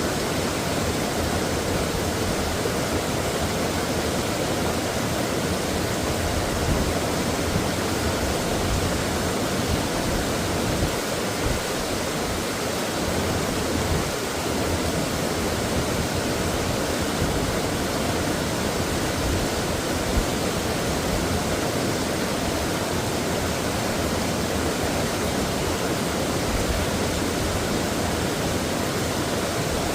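Mountain stream water rushing steadily over rocks, a constant dense splashing.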